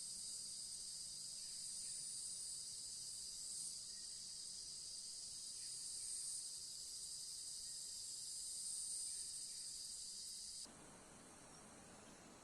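Chorus of insects chirring in a continuous high-pitched drone that swells a little every few seconds. It cuts off suddenly near the end, leaving a fainter hiss.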